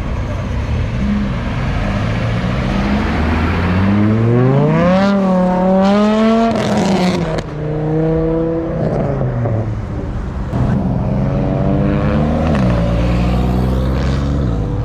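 Car engine revving hard. Its pitch climbs for about two seconds near the middle and cuts off, then rises and falls again several times toward the end.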